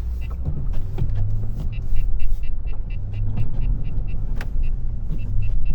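Work truck's engine running as heard from inside the cab, swelling a little about a second in. A small high-pitched chime repeats at an even, quick pace throughout.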